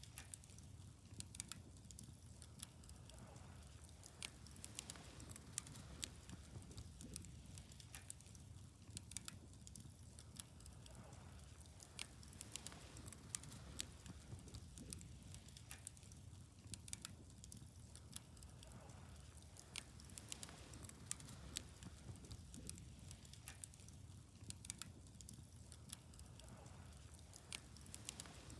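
Wood fire crackling quietly: many irregular sharp pops and snaps over a soft low rumble.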